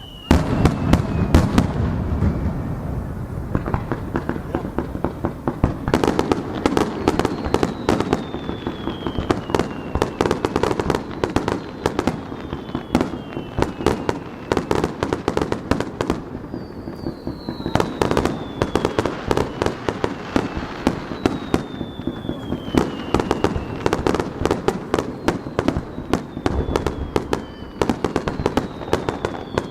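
Fireworks barrage: a dense run of sharp bangs and crackling that starts suddenly just after the beginning. Whistling tones that fall in pitch recur again and again through it.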